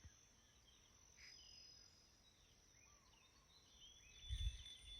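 Near silence: a quiet outdoor ambience with faint, scattered bird chirps, and a brief low rumble about four seconds in.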